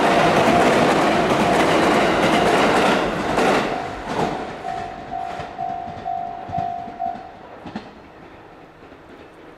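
A JR 415 series 1500-subseries electric train passing over a level crossing, wheels clacking on the rail joints; the rolling noise falls away after about four seconds as the last car goes by. A level-crossing warning bell rings in a steady repeating ding, about two a second, and stops about seven seconds in, as the crossing clears.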